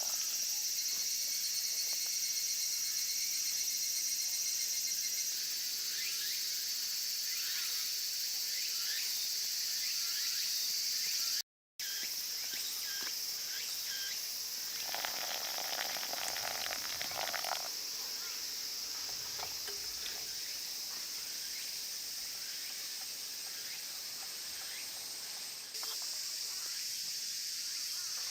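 Insects chirping steadily in a continuous high trill, with a few faint clicks and knocks near the middle; the sound drops out briefly about a third of the way in.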